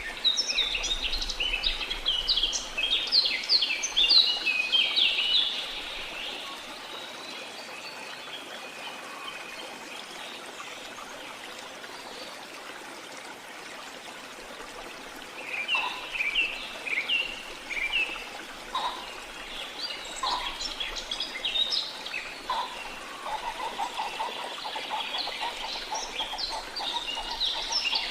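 Songbirds twittering in quick, high chirps over a steady rush of flowing water. The birds fall silent for about ten seconds in the middle, leaving only the water, then start up again, with a lower repeated call joining in near the end.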